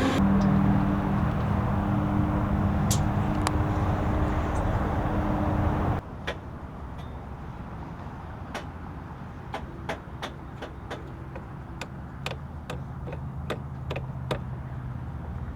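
A motor vehicle's engine running steadily, cut off suddenly about six seconds in. After it, a quieter background with a series of sharp, irregular clicks and knocks.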